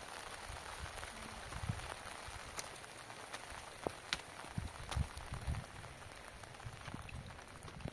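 Steady rain falling in the open, an even hiss with scattered sharp drop ticks. A few soft low thumps come through around the middle.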